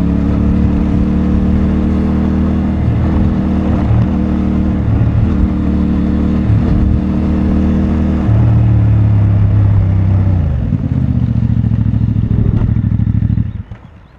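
CFMoto 450MT's parallel-twin engine with stock exhaust running at low revs, getting louder and steadier for about two seconds just past the middle, then easing back. Near the end it cuts out suddenly as the engine is switched off.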